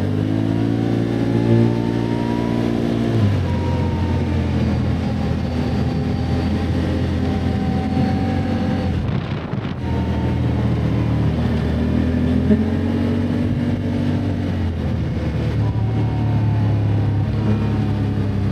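Can-Am ATV engine running under way on a rough trail, the revs climbing over the first few seconds, dropping off briefly near the middle, then rising again twice.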